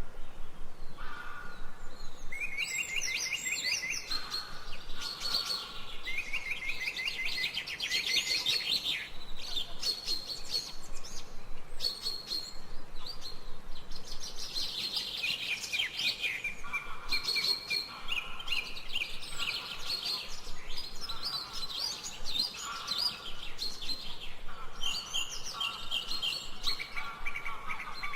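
Several songbirds chirping and singing at once, with calls overlapping. Fast trills of quick repeated notes mix with short high chirps, one after another without a break.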